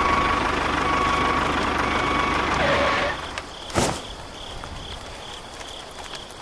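A small motor runs with a steady whine for about three seconds, then stops. A single sharp knock follows, and crickets chirp steadily through the rest.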